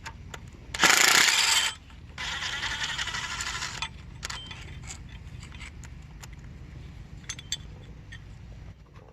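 Power wrench run in two short bursts, about a second and then about a second and a half, loosening engine bolts, followed by scattered light metal clicks of parts being handled.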